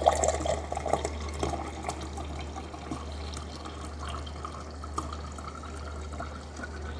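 Water running from a Frigidaire refrigerator's door dispenser into a glass, flushing a newly fitted water filter until the water runs clear.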